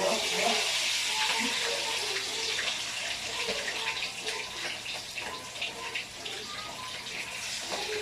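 Water running steadily from a kitchen tap, with small clinks and clatters mixed in, a little louder in the first few seconds.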